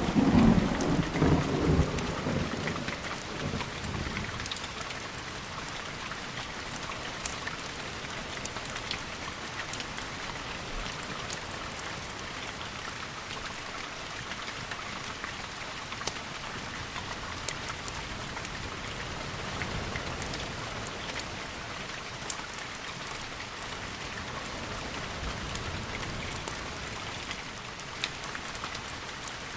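Steady rain, with a thunderclap at the very start that rumbles and fades over about four seconds and a fainter low rumble of thunder about two-thirds of the way in. Scattered small clicks and crackles sound over the rain throughout.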